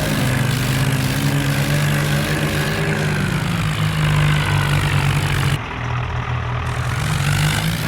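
Diesel tractor engines running hard in a tractor pull, a steady deep engine note. The sound is briefly muffled for about a second a little past the middle.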